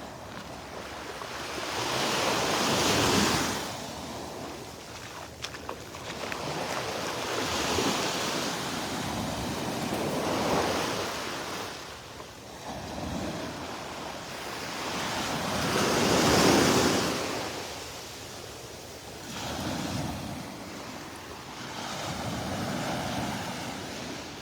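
Gulf of Mexico surf breaking and washing up the sand, the sound swelling and falling every few seconds, loudest about three seconds in and again past the middle.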